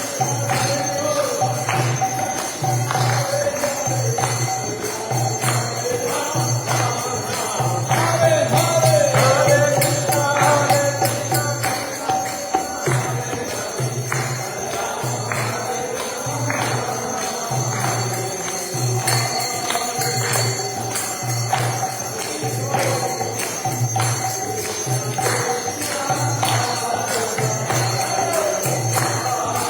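Devotional group chanting (kirtan): voices singing a wavering melody over small hand cymbals struck in a steady rhythm, with a low beat repeating about once a second.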